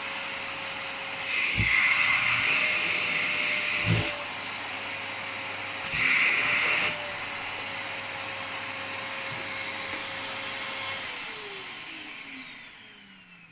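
Vacuum cleaner running with a steady whine, growing louder twice for a second or two, with a couple of brief knocks. About eleven seconds in it is switched off, and the motor winds down with a falling pitch and fades away.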